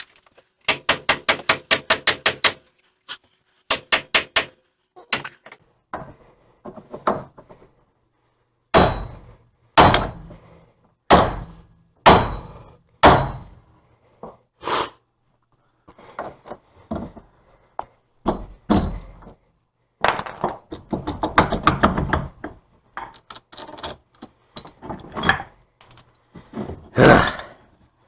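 Hammers striking a seized wheel hub assembly, metal on metal, to drive it out of the steering knuckle. A fast run of about a dozen strikes comes first, then heavy single blows about one a second, then more scattered strikes and clusters.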